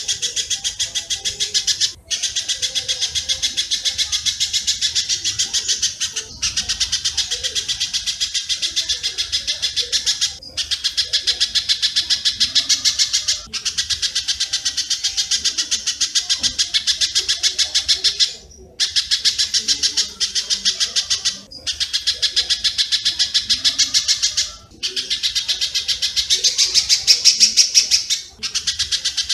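Recorded spiderhunter (pijantung) and swiftlet (walet) calls for bird training. Very fast, dense chattering notes come in phrases of two to four seconds with short breaks between them, rising a little in loudness near the end.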